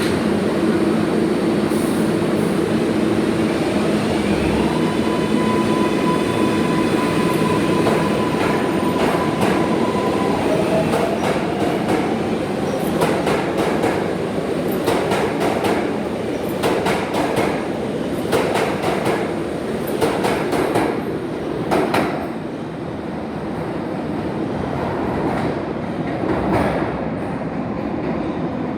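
R142A subway train running on the rails, with steady electric motor whine in the first few seconds, then a long run of sharp clicks as the wheels cross rail joints, growing a little quieter near the end.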